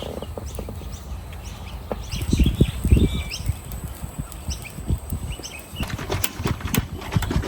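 Birds chirping in short calls, with low thuds about two to three seconds in and a quick run of sharp clicks near the end.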